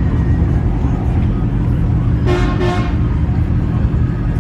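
Pickup truck engines rumbling steadily as trucks pull out, and a vehicle horn honks twice in quick succession a little over two seconds in.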